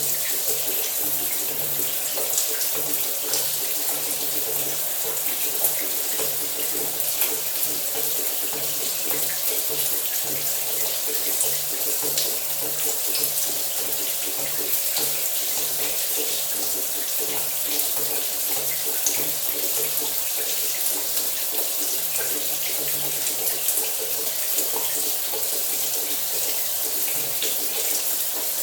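Shower running steadily: an even hiss of spraying water, with small scattered splashes.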